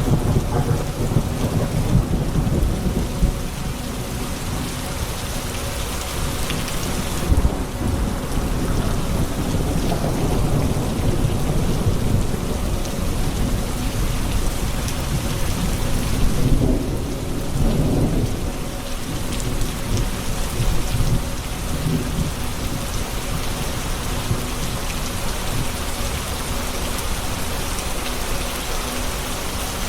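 Steady heavy rain with thunder rumbling through it, swelling near the start and again a little past the middle.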